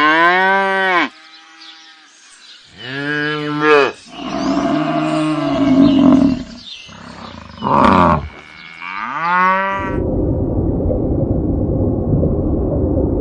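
Cattle mooing: about five drawn-out moos, each rising then falling in pitch. About ten seconds in they cut off, giving way to a steady noisy background hiss.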